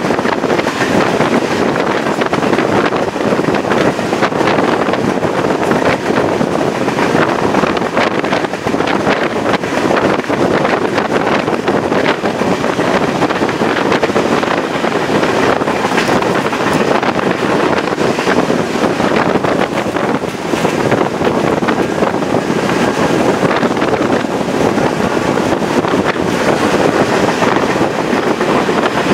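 Steady rush of a moving Chepe passenger train heard from outside its side: wind buffeting the microphone over the train's running noise, unbroken throughout.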